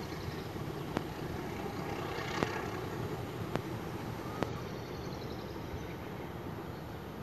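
Metre-gauge diesel locomotive hauling a passenger train, its engine and wheels making a steady low running noise, with a few sharp clicks about a second apart.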